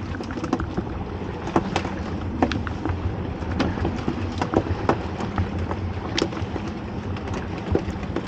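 Rain falling on a small open fishing boat: many irregular sharp drop ticks over a steady low hum and a noisy wash.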